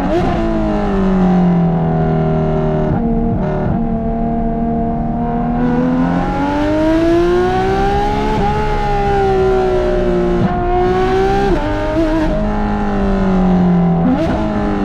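Porsche 991.2 GT3 RS's naturally aspirated flat-six, fitted with Dundon street headers and a 'Cats on Crack' pipe, pulling hard through the gears: the exhaust note climbs under acceleration and drops sharply at each shift, with a couple of brief lifts off the throttle.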